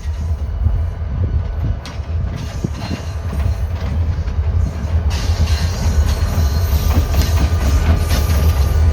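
Three-unit light-power consist of EMD diesel locomotives (two SD40-2s and a GP39-3) running along the track, with wheels clicking over rail joints. It gets louder from about five seconds in. Wind buffets the microphone with a steady low rumble.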